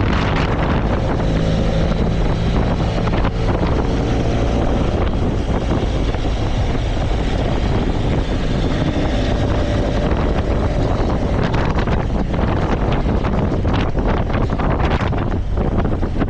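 Motorcycle engine running at a steady cruise, with strong wind buffeting the microphone.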